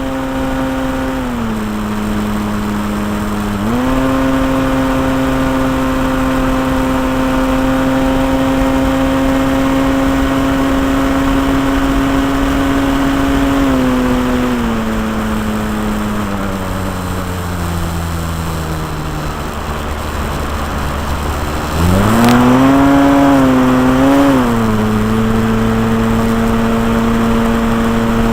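O.S. .46 AX two-stroke glow engine with an 11x7 propeller on an RC Cessna 182 model, heard close up from the airframe in flight. It runs steady at a high setting, is throttled back slowly to a low drone, then is opened up sharply about two-thirds of the way through, wavers briefly and settles at a steady cruise.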